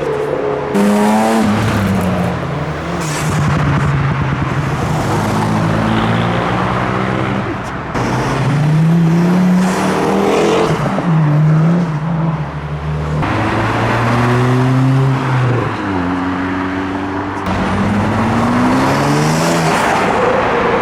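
Modified cars accelerating hard past, one after another, each engine rising in pitch and dropping back at gear changes. The engines are loud and revving throughout.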